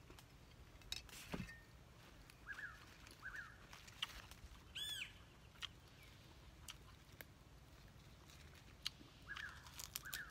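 Faint bird calls: short chirps in pairs a few seconds in and again near the end, and one louder call about five seconds in. Scattered light clicks from hands handling a plate and leafy greens.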